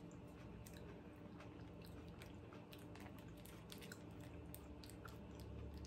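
Faint close-up chewing with small scattered clicks, while a small mustard packet is torn open by hand.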